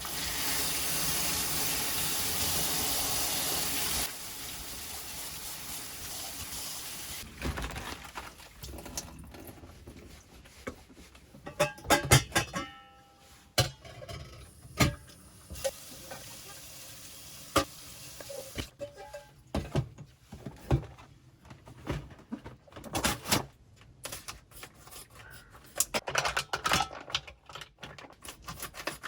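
Freshly lit campfire of kindling burning. A steady rushing hiss for the first several seconds, then irregular pops and cracks.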